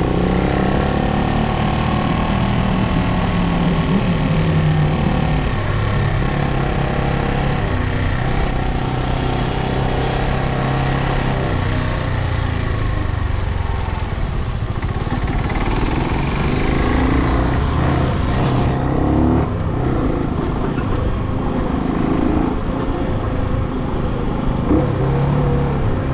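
Brixton Cromwell 250's air-cooled single-cylinder engine under way, its note rising as it accelerates and stepping between gears. The rushing hiss of wind and road falls away about two-thirds of the way through as the bike slows.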